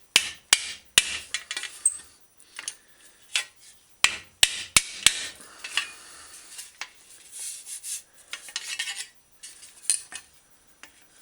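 Hammer blows and metallic clinks on a dented steel bicycle fender being straightened over a rounded wooden block. The strikes come unevenly, three in the first second and four more about four to five seconds in, with scraping and rubbing of the fender and tools between them.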